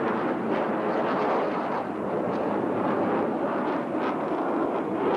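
Jet roar from Blue Angels F/A-18 Hornets in flight: a loud, steady rushing noise with no clear start or stop.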